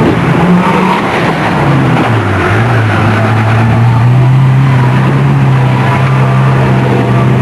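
Car engine running hard, its revs dropping about two seconds in and then holding steady and loud.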